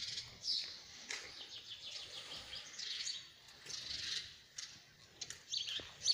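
Birds chirping, a run of short high chirps repeating through the whole stretch.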